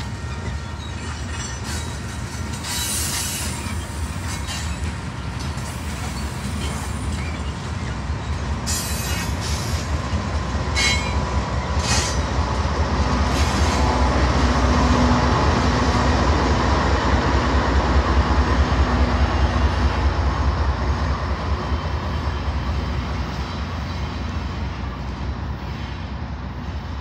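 Loaded grain train of covered hopper cars rolling past, with a steady low rumble of wheels on rail that swells to its loudest around the middle. Several brief, high wheel squeals sound in the first half.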